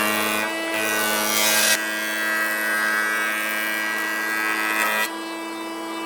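An electric power tool's motor running at a steady high pitch. A burst of rough, grinding noise in the first couple of seconds is the tool working the wood.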